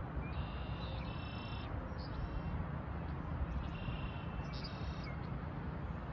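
Small birds singing: two high, quick trilled phrases, about a second in and again around four seconds, over a steady rushing background noise.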